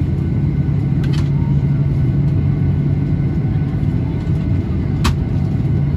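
Steady low rumble and hum inside the cabin of a Boeing 737-800 with its CFM56 engines running on the ground, with two brief clicks, about a second in and near the end.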